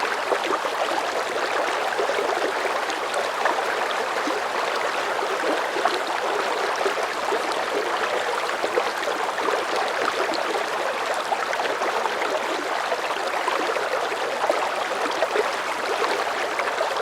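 River current flowing at a moderate pace, a steady, even rush of water with fine bubbling detail.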